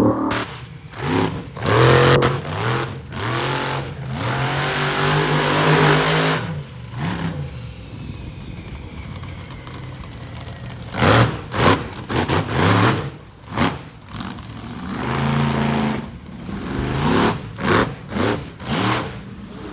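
Monster truck engine revving hard, its pitch rising and falling repeatedly, with several loud, sharp bursts in the second half.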